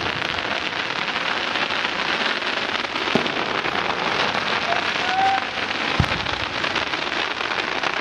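Aerial fireworks with a dense, steady crackle like falling rain, and two dull bangs about three and six seconds in.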